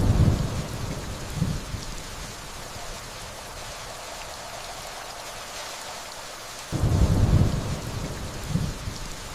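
Steady rainfall with distant thunder rumbling twice: a low roll at the start that fades over about two seconds, and another that sets in about two-thirds of the way through.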